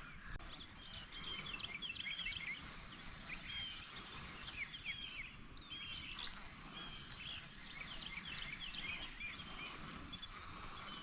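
Birds chirping and singing faintly, many short calls overlapping, over a low background rumble.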